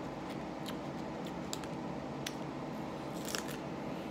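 Crisp crunches of raw jalapeño peppers being bitten and chewed: about six sharp snaps, the loudest cluster about three seconds in, over a steady background hum.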